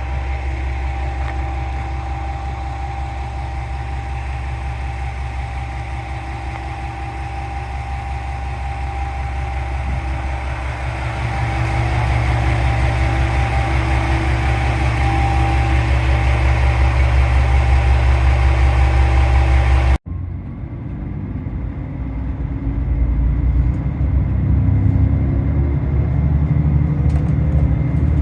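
JR Shikoku 2000 series diesel railcar engine running with a steady drone and a thin whine, getting louder about halfway through. It breaks off abruptly about two-thirds of the way in, and the engine drone that follows climbs in pitch as the train accelerates.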